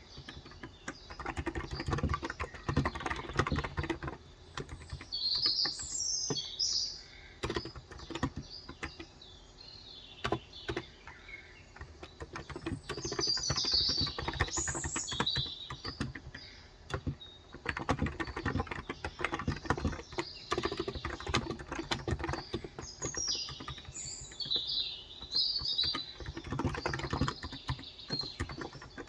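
Typing on a Cox Endeavor electro-capacitive (Topre-style, 35 g) tenkeyless keyboard, fast runs of keystrokes broken by short pauses. Birds chirp over it in three spells, about five seconds in, around the middle and near the end.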